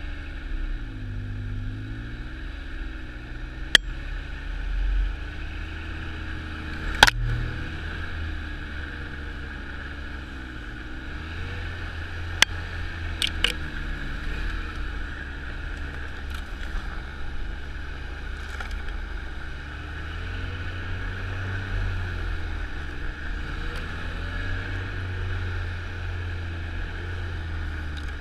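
Snowmobile engine running on the move, its pitch rising and falling with the throttle over a steady hiss. A few sharp knocks come through in the first half.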